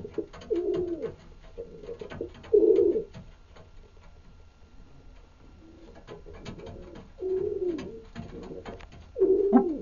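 Domestic pigeons cooing: low coos come in two bouts with a quieter lull between, the loudest about two and a half seconds in and near the end. Scattered small clicks and taps sound among them.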